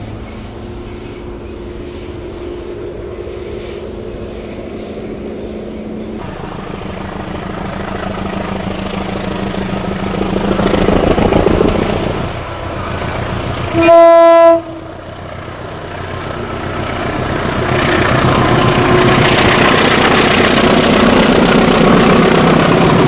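Diesel train approaching with its engine growing louder. The locomotive sounds one short, loud horn blast about two-thirds of the way through, then the train passes with wheels clattering over the rail joints.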